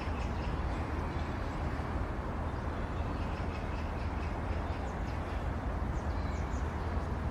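Outdoor park ambience: a steady low rumble with small birds chirping briefly now and then over it.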